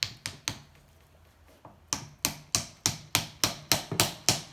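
Hammer blows driving a wedge in to prise a seized cylinder off a motorcycle engine's crankcase: three quick taps, a short pause, then a steady run of about three strikes a second.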